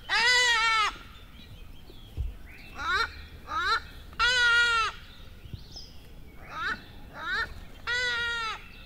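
An animal call repeated three times, about every three and a half seconds: two short rising chirps, then a longer, arched, nasal call of under a second.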